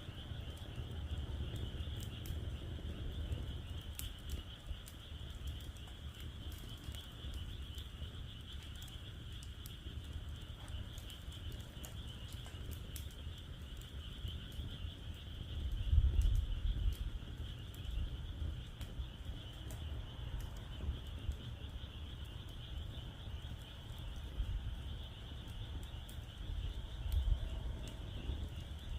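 Wood fire crackling in a fire pit, with scattered sharp pops, over a steady high-pitched chorus of calling frogs. A low rumble runs underneath and swells briefly about halfway through.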